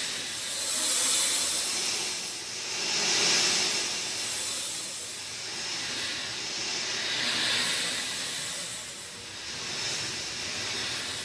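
Rain falling steadily, a dense hiss that swells and eases every two to four seconds.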